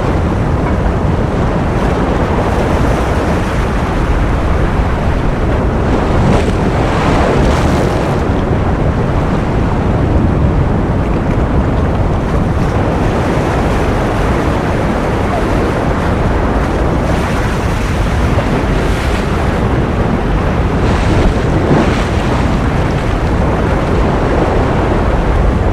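Ocean surf: a loud, steady rushing noise, heaviest in the low end, with a few brief swells of brighter hiss.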